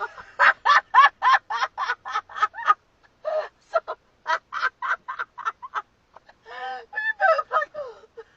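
A person laughing hard, in quick ha-ha bursts of about four a second, in three fits with short breaks between.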